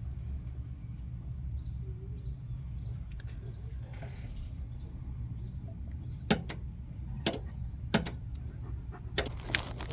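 Sharp clicks and snaps at a generator starter's B+ terminal as its cables are worked off. A few come from about six seconds in and more quickly near the end, over a steady low rumble.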